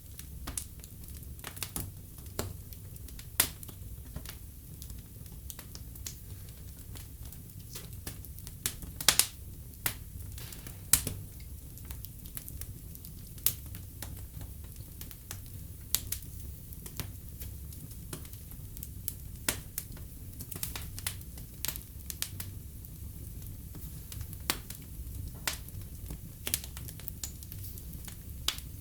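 Wood fire burning in a fireplace, crackling: a low steady rumble of the flames with irregular sharp pops and snaps, several louder pops scattered through.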